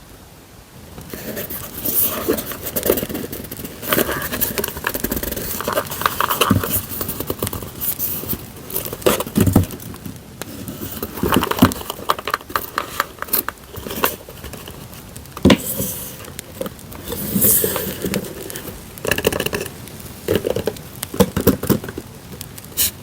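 Paper and plastic packaging being handled: irregular crinkling, rustling and tearing, starting about a second in. A steady crackling campfire track is laid underneath.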